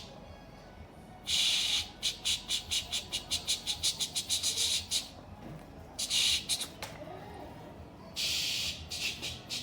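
Harsh, hissing squawks from a bird: one long squawk, then a quick run of short rasping pulses at about five a second, then two more long squawks.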